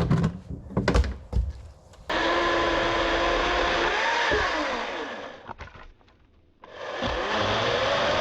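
A few sharp knocks, then a small electric motor whirring steadily. About four seconds in it winds down to near silence, then starts again and winds back up.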